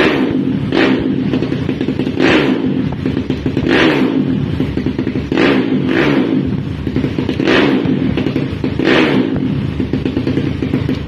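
Racing-tuned Kawasaki KLX 200 cc single-cylinder four-stroke engine being revved in short throttle blips, about eight in all, dropping back to idle between each.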